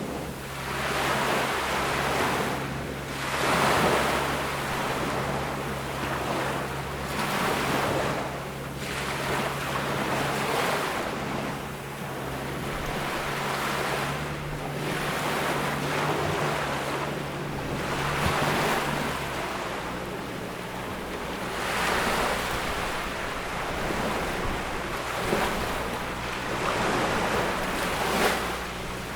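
Ocean waves breaking and washing up on a beach, swelling and falling away every few seconds. A faint steady low hum runs underneath.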